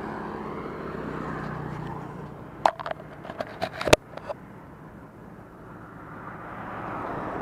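Kawasaki D-Tracker 150's single-cylinder engine running, its steady note dropping away about two seconds in. A quick run of sharp clicks and knocks follows, and near the end the engine and road noise build again.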